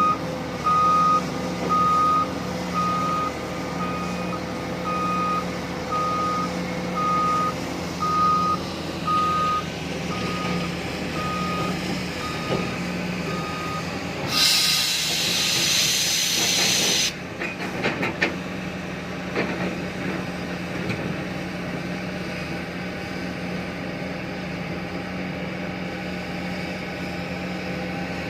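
Reversing alarm beeping about once a second, growing fainter and stopping about halfway through, typical of the tipper truck backing up to the excavator. As it stops, a loud air-brake hiss lasts about three seconds. The excavator's diesel engine runs steadily underneath.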